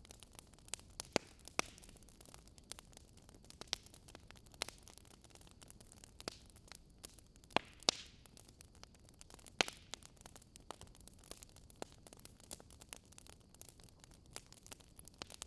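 Wood fire crackling: irregular sharp pops, a few louder ones near the middle, over a faint steady hiss.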